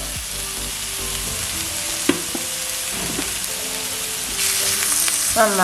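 Sliced onions and ginger-garlic paste sizzling steadily in hot coconut oil in a pan, with a single sharp tap about two seconds in and a louder burst of sizzling near the end.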